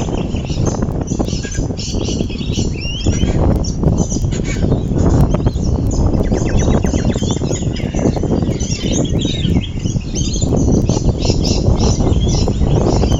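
Many small birds chirping and twittering at once, over a loud steady low rush of wind.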